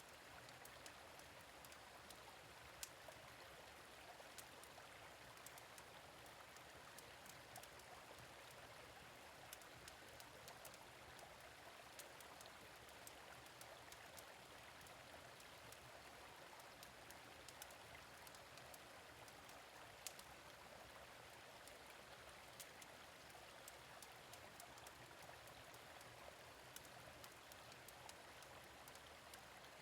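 Faint, steady running of a gentle stream, with the scattered sharp pops and crackles of a wood fire in a fire pit. A couple of crackles stand out, one about three seconds in and one about twenty seconds in.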